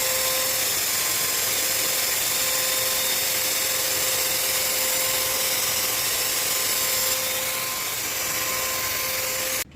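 Electric paint sprayer running steadily with a whining hum. It drops slightly about seven seconds in and cuts off suddenly near the end.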